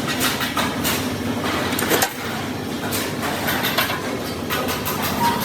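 Irregular metallic clanks and taps of hand tools working sheet metal, several a second, over a steady low hum.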